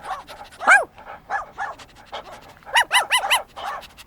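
A dog barking in short, high yaps that fall in pitch: a loud single bark under a second in, then a quick run of four about three seconds in.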